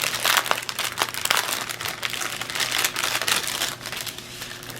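Small plastic bags of diamond-painting drills crinkling as they are handled. The irregular crackle dies down near the end.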